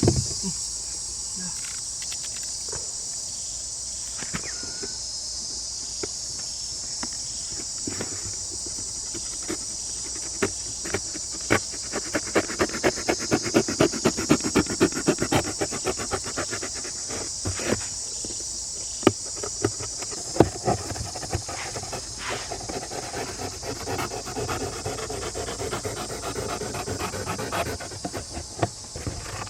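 Steady high-pitched chirring of crickets. Over it, a run of rapid scratching taps comes up about ten seconds in and fades by about seventeen seconds, with scattered single knocks after that.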